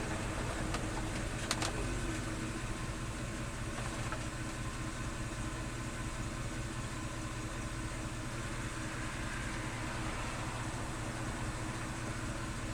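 1978 Ford F-150 truck's V8 or six-cylinder engine running steadily at an even speed, with a couple of short clicks about one and a half seconds in.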